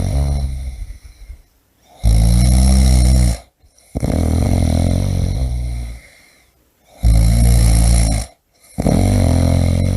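A person snoring loudly in a regular rhythm. Each snore lasts one to two seconds, with brief pauses between breaths, and the snores come in closely spaced pairs.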